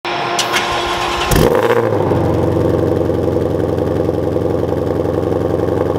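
Ford Mustang Shelby GT500's 5.2-litre supercharged V8 starting up. It catches with a loud flare about a second in, then settles into a steady idle.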